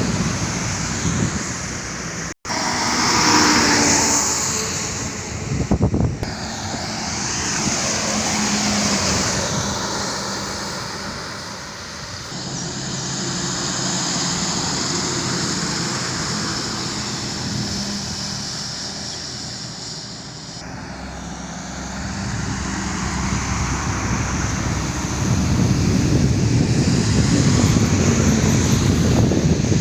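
Road vehicle running on a highway: steady engine and road noise with wind rushing past. The sound cuts out for an instant about two seconds in and grows louder near the end.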